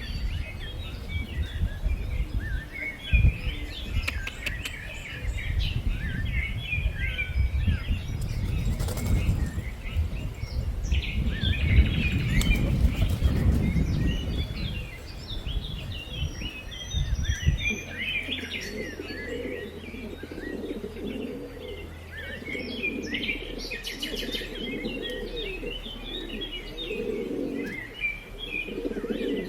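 Small birds chirping throughout over a gusty low rumble; about two-thirds of the way through the rumble drops away and pigeons start cooing, with repeated low calls.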